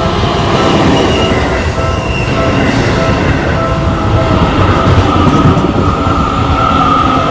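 Seibu Shinjuku Line train running past at a level crossing: a loud, steady rumble of wheels on rail, with a high whine that grows stronger near the end.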